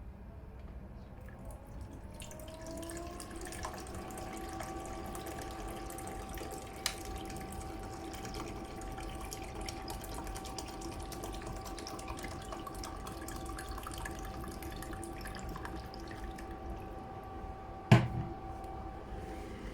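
Evapolar personal evaporative air cooler's fan spinning up, a whine rising over the first few seconds and then holding at one steady pitch over a hiss of air. A sharp knock sounds near the end.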